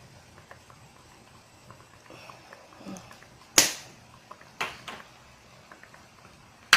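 A few sharp knocks and clicks of kitchen utensils or seasoning containers while spices are being added to the pot. The loudest comes about three and a half seconds in, and two quicker ones follow about a second later.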